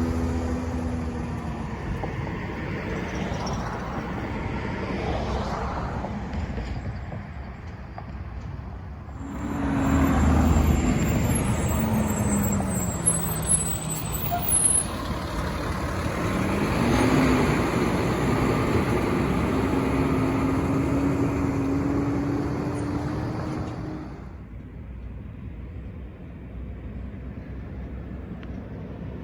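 Garbage truck engines driving past. One engine's pitch falls as it slows, with a few short sharp sounds about halfway through. Then an engine's pitch rises and holds steady as it pulls away, and the sound drops off sharply near the end.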